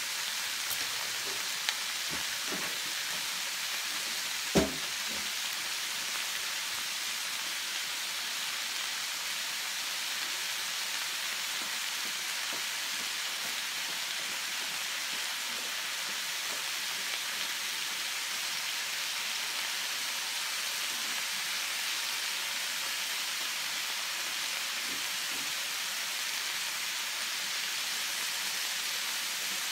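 Ground pork and a heap of shredded cabbage sizzling steadily in a frying pan left on the heat, with a single sharp knock about four and a half seconds in.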